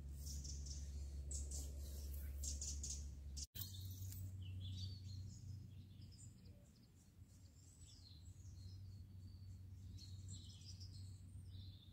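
Small birds chirping and twittering, faint, over a low steady rumble. The sound cuts out for an instant about a third of the way in.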